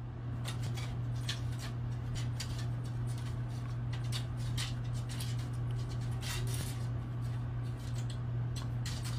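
A cat's claws clicking and scratching irregularly on the slats of a wooden louvered closet door as it climbs and clings, over a steady low hum.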